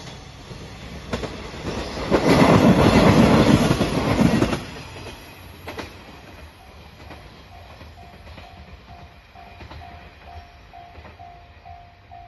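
Anpanman Torokko diesel train passing close by, its engine and wheels rumbling loudest for about two and a half seconds before fading away. From about seven seconds in, a level-crossing bell rings steadily, about two dings a second.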